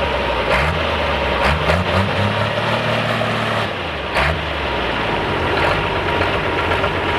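A pulling tractor's engine idling, its pitch stepping up briefly a few times in the first half before settling back to a steady idle.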